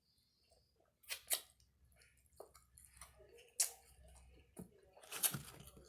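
Close-up chewing and mouth sounds of someone eating, with a few sharp wet smacks and clicks.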